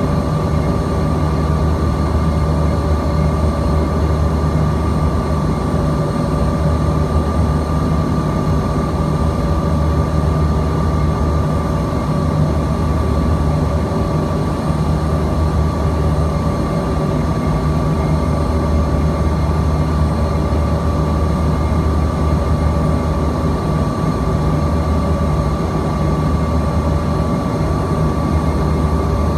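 Steady cabin noise inside a Bombardier CRJ-200ER in flight: a deep, even rumble and rush from its rear-mounted GE CF34 turbofans, with a constant high whine running through it.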